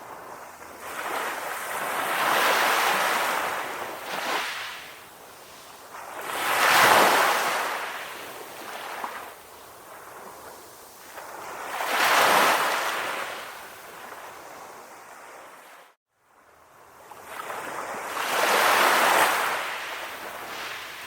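Calm sea waves washing in and out, each surge swelling and fading over a few seconds, four times in all. About three-quarters of the way through, the sound cuts to a moment of silence before the next wave builds.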